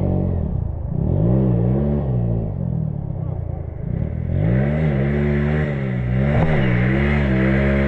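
Off-road trail motorcycle engine revving up and down several times, then held at steady high revs near the end.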